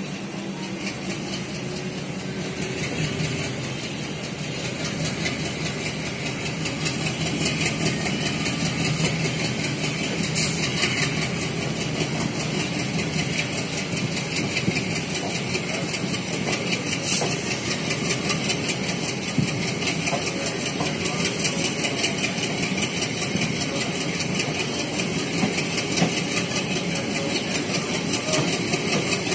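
Steady running noise of a passenger train heard from on board, with a fine rapid flutter. Two sharp clicks come about a third and about halfway through.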